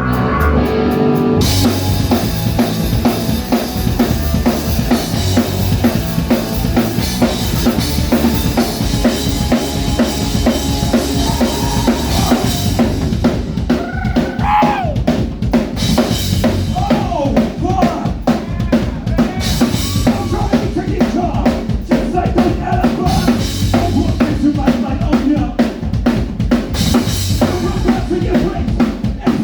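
Live band playing a song: a chord rings, then about a second and a half in the full band comes in, with dense, driving drumming on bass drum, snare and rimshots under guitar.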